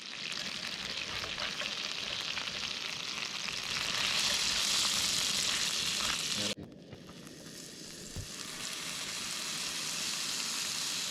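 Food sizzling in a hot frying pan: a steady crackling hiss that drops suddenly about six and a half seconds in, then slowly builds again.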